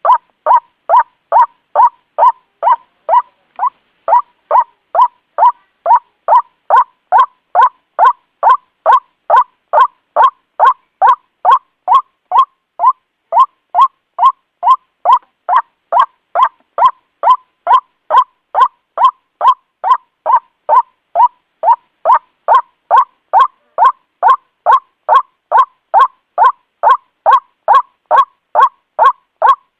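White-breasted waterhen giving its repeated 'ruak' call: short harsh notes about twice a second in a steady, unbroken rhythm, as in a looped lure recording.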